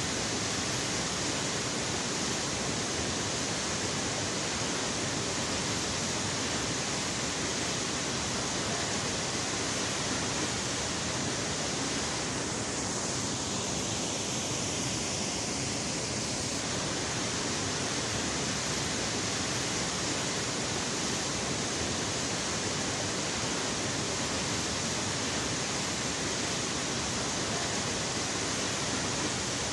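A tall waterfall, about 64 m high, pouring: a steady, dense rush of falling water.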